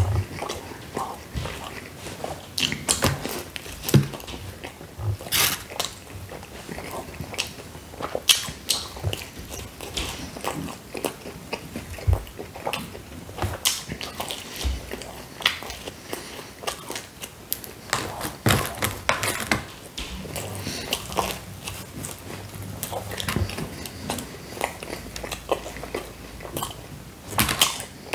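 Close-miked mouth sounds of a person biting and chewing Hawaiian pizza, with many irregular clicks and smacks.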